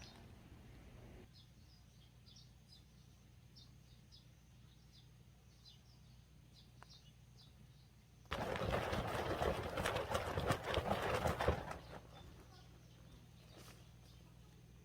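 Small birds chirping in short, repeated notes. From about eight seconds in, a loud crackling rustle lasts about three and a half seconds, then stops.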